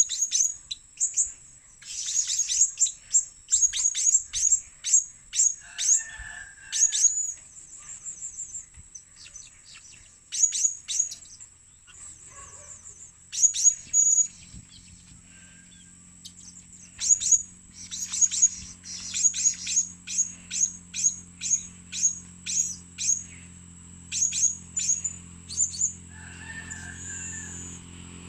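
Blue-crowned hanging parrot (serindit) calling: very high, thin, sharp notes given in rapid bursts of several at a time, with a few short trills between them.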